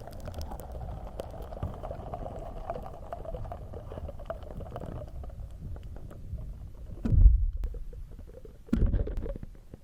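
Slime squished and rubbed directly on a microphone: close, muffled squelching with many small sticky pops and crackles, and two louder squishes about seven and nine seconds in.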